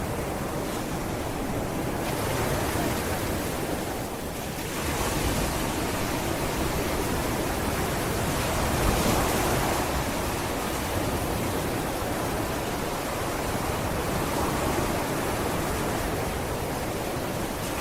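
Sea waves breaking and washing up on a sandy beach: a continuous rushing surf that swells and ebbs, building about five seconds in and loudest about nine seconds in.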